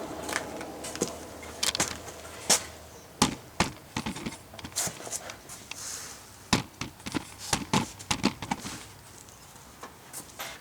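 Hand hammer striking a steel disc in a run of irregular, sharp blows, dishing (cupping) it into a bowl shape; the hardest strikes come a few seconds in.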